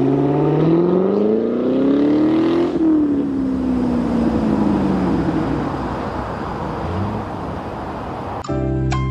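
2018 C7 Corvette Stingray's LT1 V8 with the mufflers deleted and straight-piped to quad tips: the engine note climbs steadily for nearly three seconds, then falls away and fades into a steady rush. Music comes in abruptly near the end.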